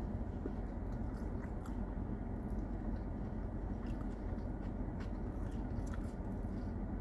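Close-up chewing of a toasted sub sandwich, with small wet mouth clicks here and there, over the steady rush of a car's air conditioning.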